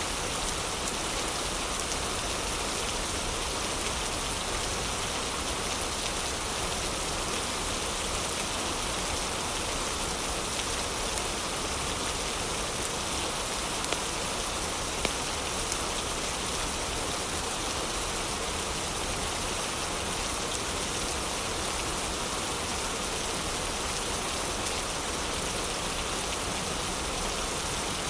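Heavy rain falling steadily, with a few sharp pops from a crackling wood fire, mostly around the middle.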